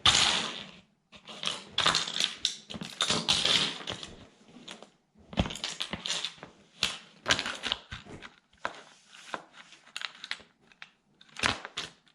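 Plastic toy military truck cracking and crunching under a sandal sole, in irregular bursts of snapping and crackling with short pauses between them.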